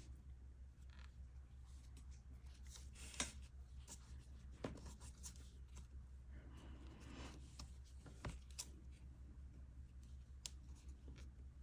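Faint, scattered clicks and scratchy rustles of a crochet hook pulling yarn through stitches, over a steady low hum.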